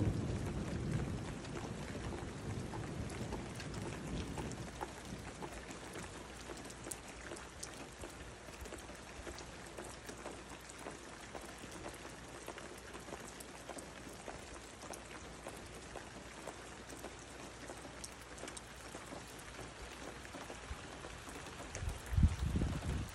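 Heavy rain falling steadily, with many individual drops ticking. A low rumble of thunder fades out over the first few seconds, and a brief loud low rumble comes near the end.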